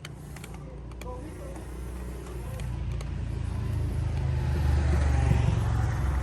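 A low engine rumble that grows steadily louder over a few seconds, peaking shortly before the end, like a motor vehicle drawing near.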